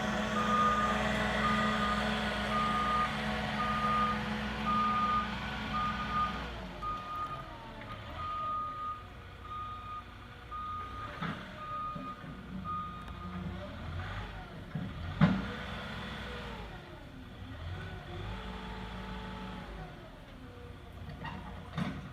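Forklift running with its backup alarm beeping steadily, about once a second, while it reverses; the beeping stops about 13 s in. The engine then rises and falls in pitch as it works, with a sharp clunk about 15 s in.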